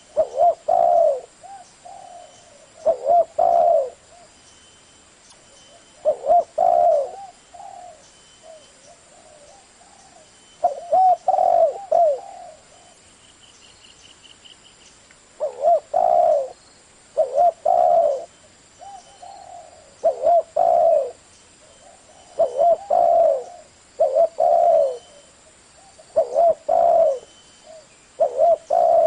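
Spotted dove cooing: a phrase of two or three low coos about every two to three seconds.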